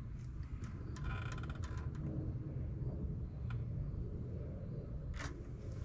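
Quart bottle of motor oil being opened by hand: a quick crackling run of clicks about a second in as the cap and its seal are worked, then a single click and a short scrape near the end, over a steady low rumble.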